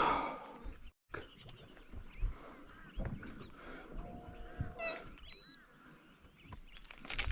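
Birds calling: short chirps and a few held whistle-like notes, among scattered knocks and rustles. The sound drops out completely for a moment about a second in.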